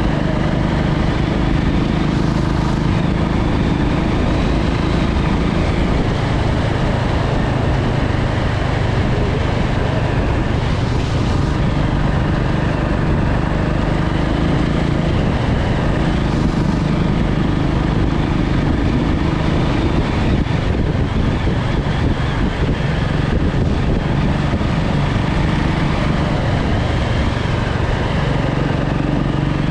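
Motorcycle engine running steadily while riding, with heavy rush over the microphone that barely changes.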